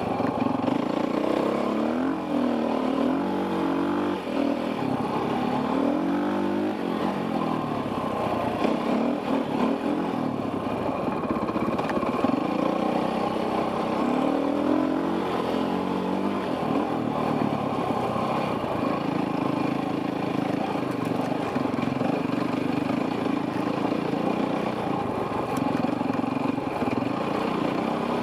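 Enduro dirt bike engine heard from the rider's helmet camera, its pitch rising and falling again and again as the throttle is worked over the trail. About two-thirds of the way through it holds a steadier pitch for several seconds before varying again.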